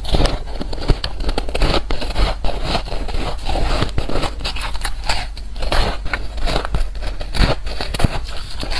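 Soft, frosty white ice chunks being bitten and chewed close to the microphone: a dense, irregular crunching and crackling with no pauses.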